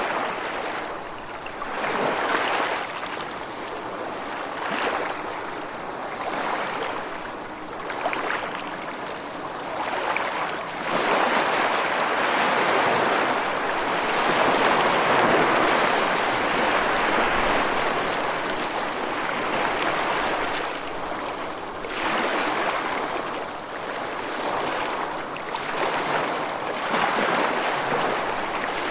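Running water rushing steadily in surging swells, louder for several seconds in the middle.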